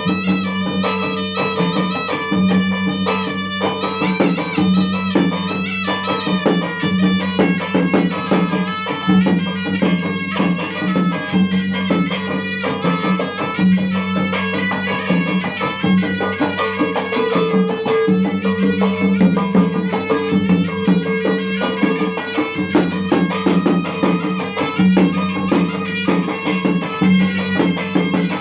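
Bugis gendang drums played in a fast, dense traditional rhythm, with a reed wind instrument holding a steady droning melody over them.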